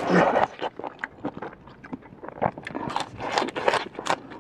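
Close-miked biting and chewing of crisp raw green stalks, a run of short crunchy snaps that grows busier in the second half. It opens with a short, loud puff of breath.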